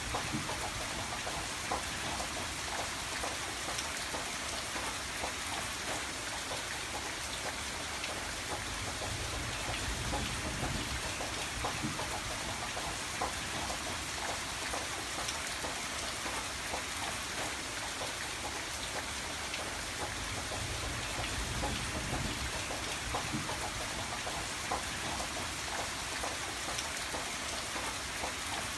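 Steady rain falling, with many small drop ticks on a surface and no break or change in strength.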